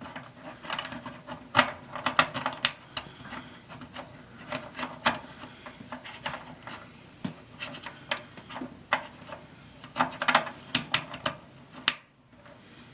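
A small sheet-metal screw being turned into a dryer's sheet-metal panel with a 1/4-inch wrench to fasten a new thermal fuse: irregular clicks and scrapes of metal on metal, with a sharper click near the end.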